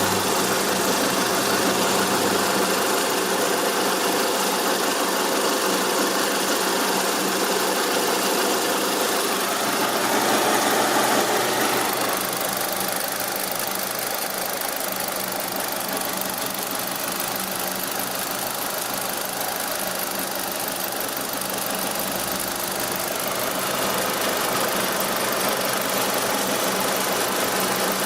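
Mitsubishi Lancer's 4G63 four-cylinder engine idling with a strange noise that turned up only at idle after a timing belt change. The sound grows a little louder about ten seconds in, then settles slightly quieter.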